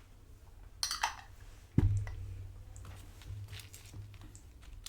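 Tortilla chips crunching while eating nachos, with one sharp thud about two seconds in, the loudest sound, like something set down or knocked on the table, and a few fainter crunches after it.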